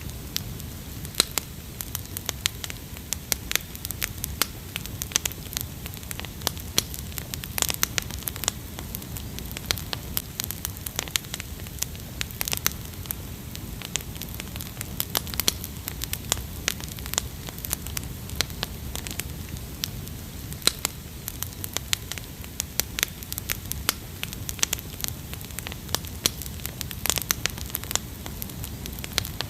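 Wood fire crackling, with irregular sharp pops over a low, steady rush of burning.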